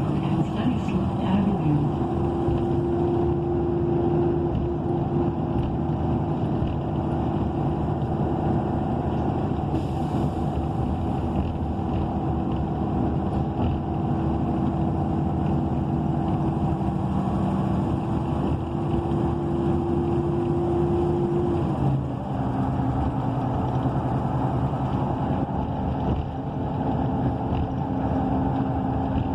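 2012 ENC EZ Rider II transit bus under way, its Cummins Westport ISL G natural-gas engine and Allison B300R automatic transmission running with a steady rumble heard from inside the cabin. A steady whine holds one pitch, then steps down to a lower pitch about three-quarters of the way through.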